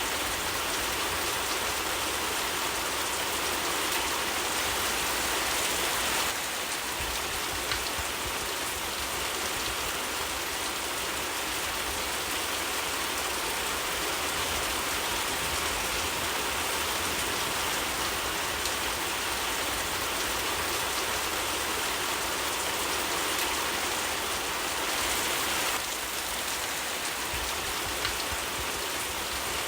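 Steady rain falling, an even hiss of many drops with no pause.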